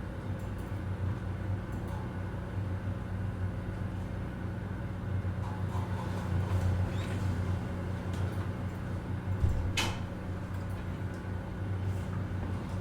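Office ambience: a steady low mechanical hum with scattered small clicks and knocks, and one sharper knock about ten seconds in.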